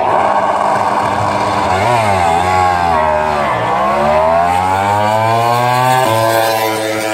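MotoGP racing motorcycle engine at high revs. The pitch drops about two seconds in, then climbs steadily for a couple of seconds as the bike accelerates, and settles to a steady lower note near the end.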